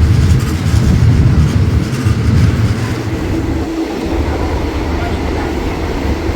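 Passenger train running along the track: a steady low rumble and rattle of the moving carriage, easing a little after about three seconds.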